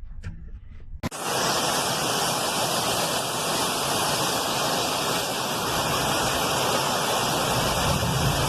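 A steady, even rushing noise cuts in abruptly about a second in and holds unchanged.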